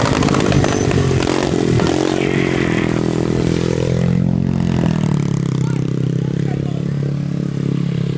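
Small 90cc pit bike engine revved with rising and falling pitch for the first few seconds, then settling into a steady idle.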